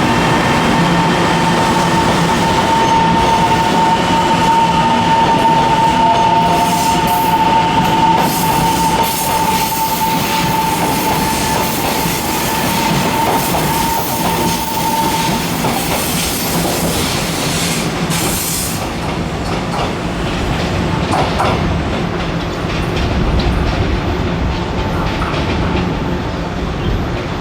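Taiwan Railway EMU700-series electric train (set EMU701/702) moving through a station with a loud, steady rumble of wheels on rails. A steady high-pitched whine sounds over it for about the first half, then fades.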